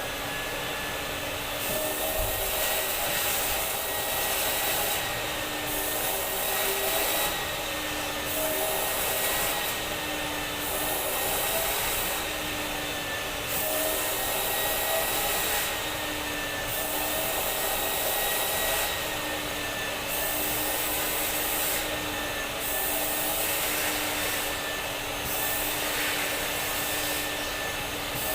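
Vacuum cleaner running steadily: a high motor whine over the rush of air, the hiss swelling and dropping every second or two as the suction changes.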